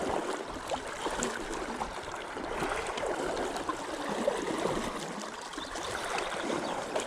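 Fast, high river current rushing and gurgling around a wading angler's legs as he crosses the stream, with a few small knocks.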